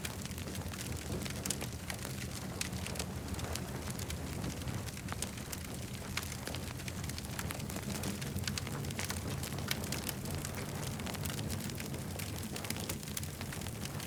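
Campfire crackling: frequent small sharp pops and snaps, irregularly spaced, over a steady low rumble of burning.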